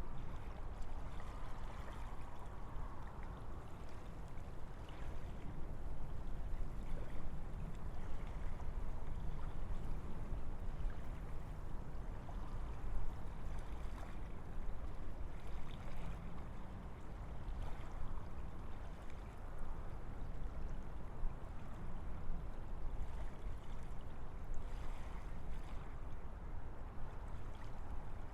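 Steady wind through a forest, a continuous deep rushing that swells and eases slightly, with faint brief rustles.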